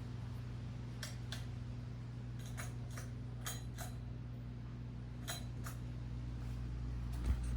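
Canarm Twister Hugger ceiling fan coasting down after being switched off from high, with a steady low hum and scattered faint ticks. A single thump near the end.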